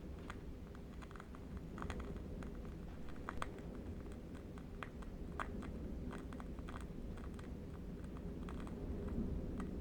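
Burning flame crackling with sparse, irregular small pops and ticks, over a low steady rumble of distant wind.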